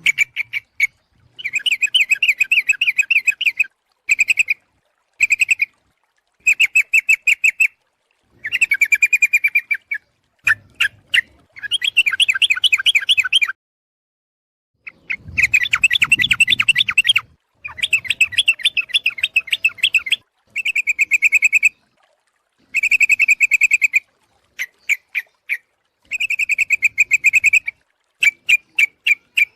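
Yellow-vented bulbul (trucuk) calling: phrases of rapid chattering notes, each one to two seconds long, repeated with short gaps and one longer pause about halfway. This is a recorded lure call, a female's call meant to draw males in.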